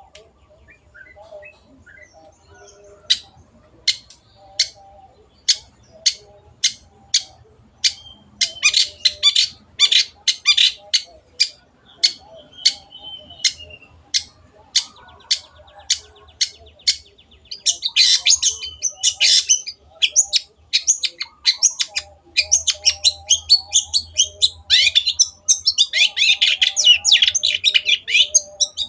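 Long-tailed shrike (cendet) singing: a series of sharp, harsh high notes at about one and a half a second, breaking several times into fast, dense chattering runs.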